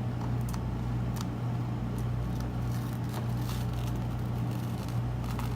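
A steady low electrical hum, with faint, irregular scrapes of a squeegee drawing excess chalk paste off a silk-screen transfer.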